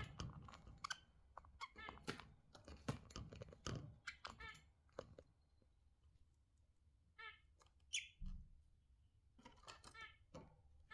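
Budgerigars chattering faintly in short warbling chirps, among quick sharp clicks and taps; the sounds thin out to a lull about halfway through, then the chirping picks up again.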